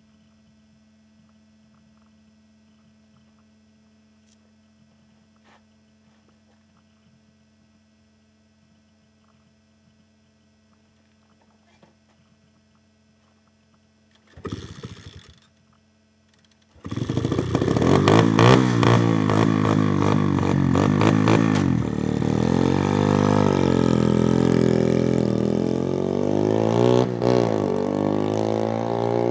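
Dirt bike engine: a brief burst of engine sound about halfway in, then the engine starts a couple of seconds later and runs loudly, its pitch rising and falling as it is revved. Before that, only a faint steady hum.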